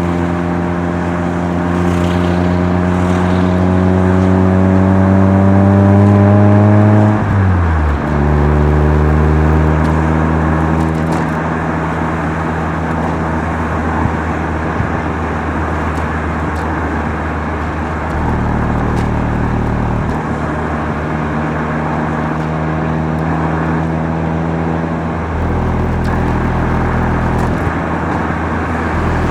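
Mazda RX-7 FC3S's twin-rotor rotary engine through a Knight Sports Legal Sports aftermarket muffler, heard while driving: revs climb steadily for about seven seconds, drop sharply with a gear change, then the engine runs at fairly steady revs with small changes in throttle.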